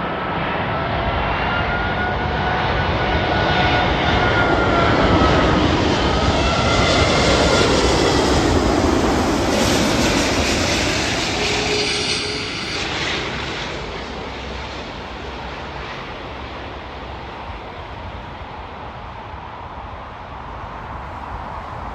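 Four-engine Airbus A380 airliner passing low overhead on its landing approach. The engines make a whine and a rush that grow loudest several seconds in, with the whine falling in pitch as the aircraft goes past. The sound then fades to a steadier rumble.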